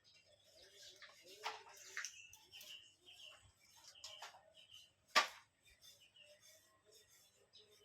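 Birds chirping in short, scattered calls, with several soft clicks and one sharp click about five seconds in.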